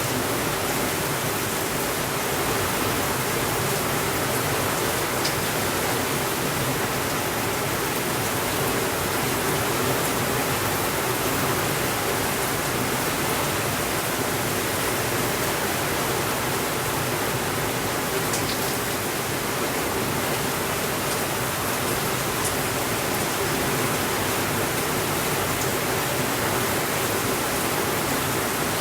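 Steady rainfall, an even hiss that does not let up, with a few faint ticks now and then.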